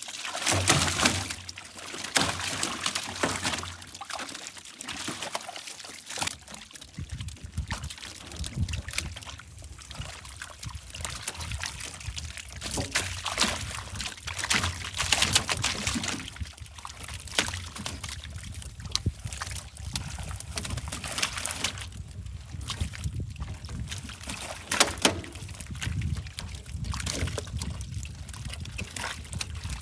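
Water splashing and trickling in irregular bursts, with a low rumble coming in about seven seconds in.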